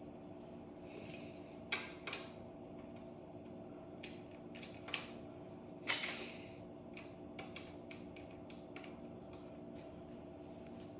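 Scattered metallic clicks and clinks of tools or parts being handled during motorcycle fork work, the loudest about six seconds in, over a steady low hum.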